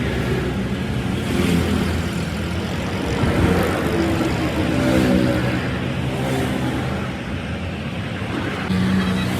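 Motor vehicle engines running on the road, their pitch rising and falling as they rev and pass.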